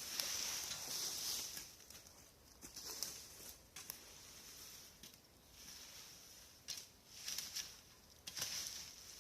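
Dry branches and leaf litter rustling and crackling as debris is moved, in several uneven bursts with a few sharp snaps.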